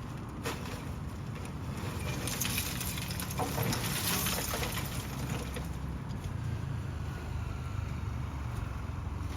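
Heavy truck engine running steadily. A hissing, rattling noise with scattered clicks swells over it between about two and five seconds in.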